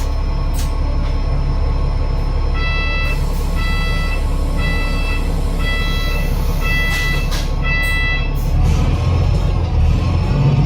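Bus's Cummins ISL8.9 diesel running low and steady while an electronic beeper sounds six times, about once a second. Near the end the engine note rises as the bus pulls away.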